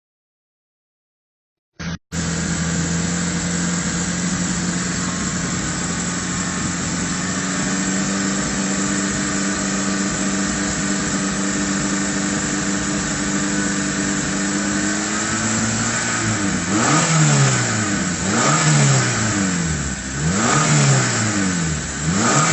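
Car engine idling steadily, its idle speed creeping up slightly, then revved up and down several times near the end. It starts abruptly after about two seconds of silence.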